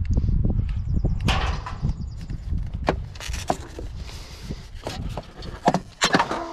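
Irregular knocks, clicks and clatter of metal and plastic parts being handled and pulled apart while a water cooler is dismantled for scrap, over a low rumble in the first couple of seconds.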